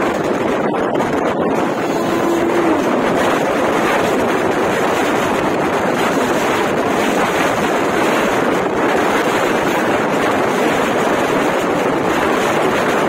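Loud, steady rush of wind and wheels on rails from a train running at speed, heard at an open door or window, as the coaches of a passing express stream by on the adjacent track.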